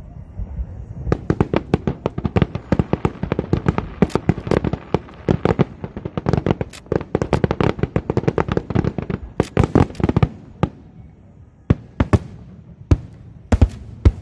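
Aerial fireworks bursting in a rapid barrage of sharp bangs, thinning after about ten seconds to a few scattered bangs near the end.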